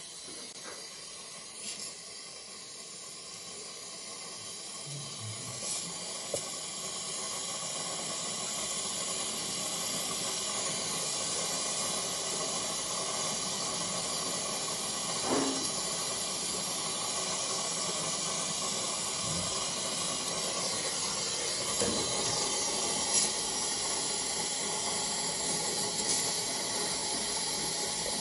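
A steady hiss of gas under pressure, growing louder over the first ten seconds and then holding, with a few light knocks and clicks and a short falling squeak about halfway through.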